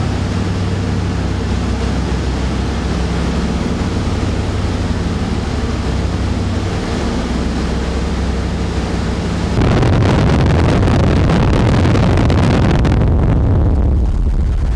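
Four radial engines of a B-17 Flying Fortress running steadily with a low, even drone, then growing markedly louder about ten seconds in as they are powered up.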